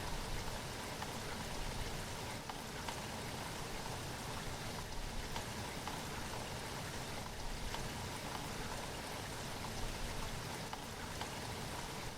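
Steady rain falling, with many small drops ticking on a surface over a constant hiss.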